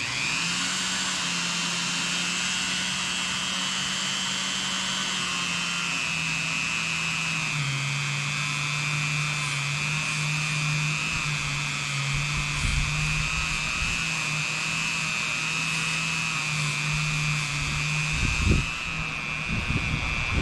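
Dremel rotary tool with a Scotch-Brite wheel switching on and running steadily, with a high whine over a low hum. The whine rises as the tool spins up at the start and steps down slightly in pitch twice in the first several seconds.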